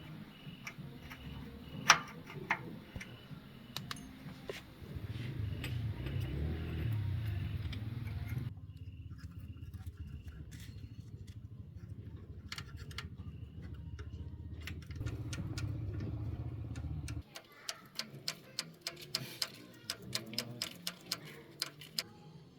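Scattered light clicks and clinks over a low steady hum, with the background changing abruptly twice; the clicks come thick and fast near the end.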